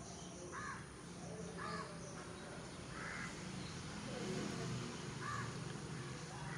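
Faint bird calls: about five short calls, spaced a second or two apart, over a low steady hum.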